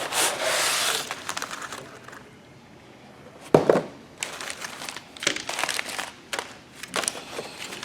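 Plastic packaging crinkling and rustling as a remote start kit is handled and opened, in irregular crackles with a sharp one about halfway through.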